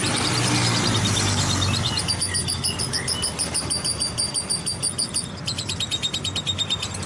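Lovebird singing a fast, rapidly repeated chattering trill in two long runs, over a low hum of street traffic.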